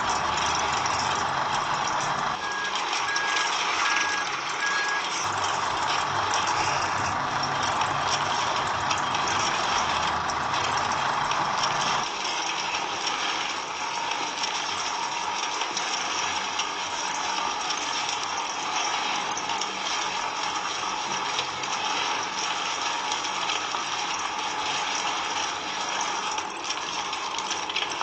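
Steady running of the small motor of a DIY model tractor, with a short run of four high beeps like a reversing alarm about two seconds in. The sound drops a little in loudness and loses some of its low end about twelve seconds in.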